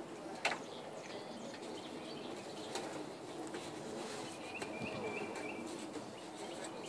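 A songbird calling outdoors: a quick series of about four short high chirps roughly four and a half seconds in, over a steady faint background. A single sharp knock about half a second in.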